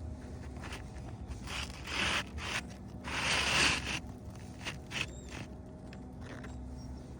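A handful of short scraping and rustling noises, the longest and loudest a little after three seconds in, over a faint steady low hum.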